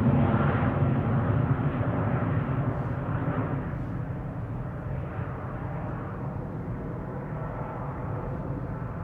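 Jet airliner's engines rumbling low and deep, fading steadily as the aircraft moves away.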